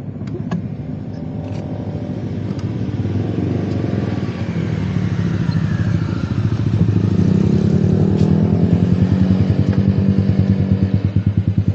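Honda CBR250RR parallel-twin engine running through a DST full-system aftermarket exhaust. The engine note climbs in pitch and loudness over the middle seconds, then settles into a steady pulsing note near the end.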